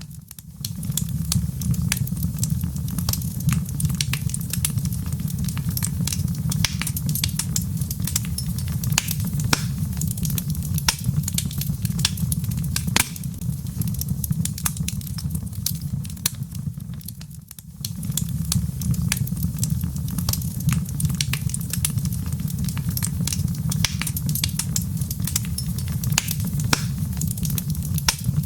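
Wood fire burning in a fireplace: a dense, irregular crackle of sharp pops from the burning logs over a steady low rumble. Near the two-thirds mark it dips for a moment and then picks up again.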